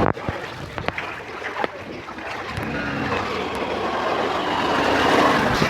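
Rushing, splashing water of a flooded street, swelling over the second half, with a few sharp knocks in the first second.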